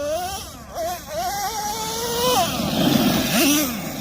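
Traxxas Revo 3.3 nitro RC truck's small two-stroke glow engine revving, its whine climbing steadily in pitch for about two seconds, then dropping off, followed by a rougher stretch with a couple of short blips.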